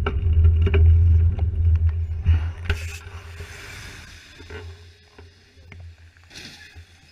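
Low rumble of a car on the move, loud for the first two and a half seconds and then dying away, with scattered clicks and two brief hisses.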